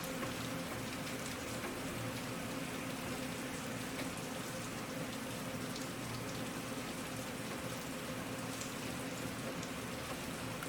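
Steady rain falling, with individual drops ticking against the even hiss of the downpour.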